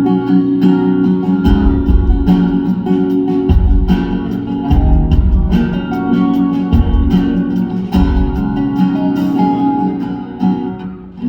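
Live instrumental music at a sound check: guitar playing chords and plucked notes, with deep low notes coming in every second or two.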